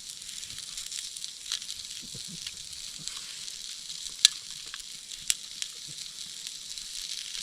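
A burger sizzling over a campfire: a steady frying hiss with a few sharp pops, the loudest about four seconds in.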